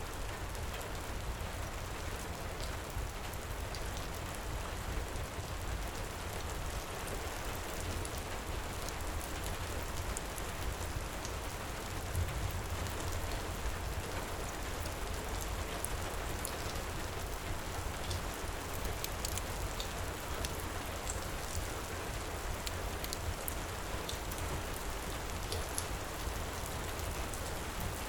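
Steady heavy rain mixed with a crackling wood fire, scattered small sharp pops over an even hiss and a low rumble.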